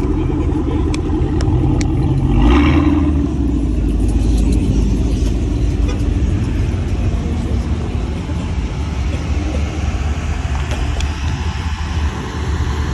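Car engine running with a steady low rumble, with a short louder surge about two and a half seconds in.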